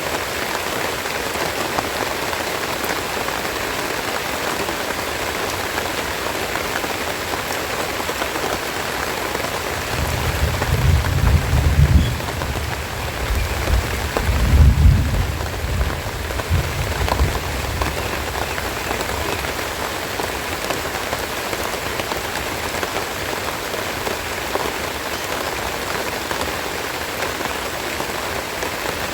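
Steady rain falling and pattering on leaves around the nest. About ten seconds in, a low rumble swells twice and dies away after several seconds.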